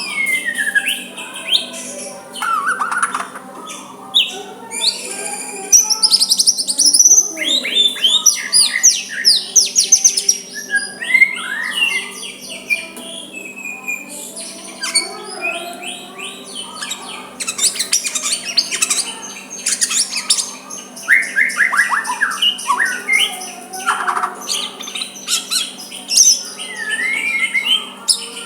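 White-rumped shama (murai batu) singing continuously: a varied run of clear whistles, quick rising and falling phrases, rapid chirps and harsher squawky notes. This is the kind of song played to rival shamas to set them singing back.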